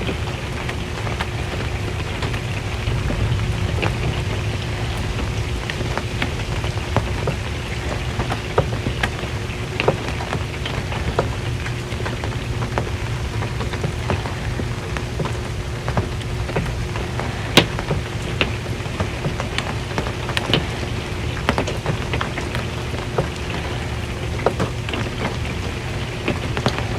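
Rain drumming steadily on an RV's metal roof, with scattered sharper plinks of single drops striking the metal; the sharpest lands about two-thirds of the way in.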